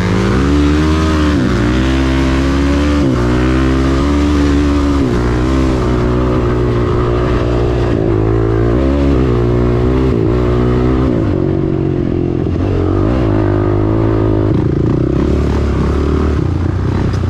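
Dirt bike engine being ridden, revving up and easing off again and again as the rider works the throttle and gears. It settles to a steadier note for the last few seconds.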